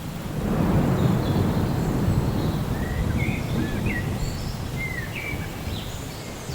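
Rolling thunder: a low rumble swells about half a second in and slowly fades. Small birds chirp in short rising and falling notes over it, starting about halfway through.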